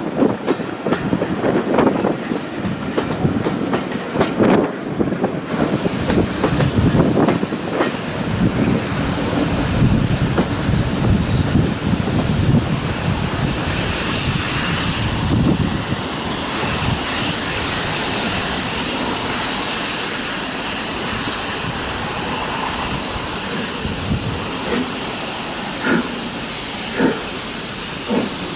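Steam train: a clattering of wheels and rolling stock over the rails, then from about six seconds in a loud, steady hiss of steam from a steam locomotive that runs on, with a few faint knocks near the end.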